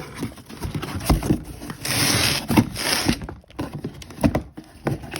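Cardboard box and packing material of an air suspension kit being handled: scattered knocks and thumps, with about a second of loud rustling of packing material roughly two seconds in.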